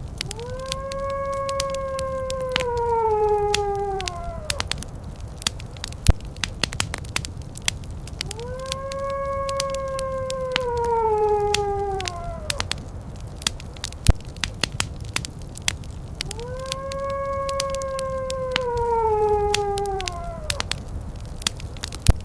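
Three long howls, each held level and then falling in pitch at the end, repeating about every eight seconds, over continuous crackling and popping from a wood fire.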